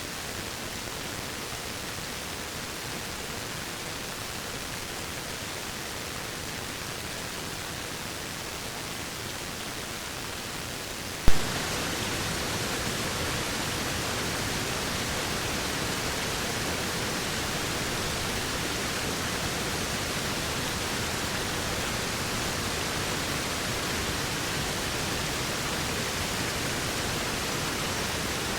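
Waterfall rushing steadily. About eleven seconds in there is a sharp click, and the rush becomes louder and brighter from then on.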